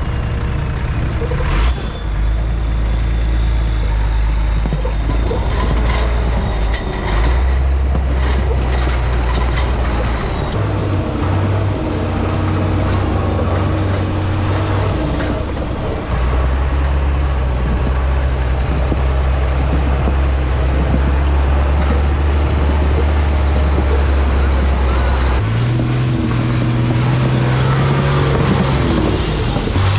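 1987 Ford L8000 turbo diesel engine running hard, its pitch stepping up and down several times as the revs change, with a thin high whistle over it.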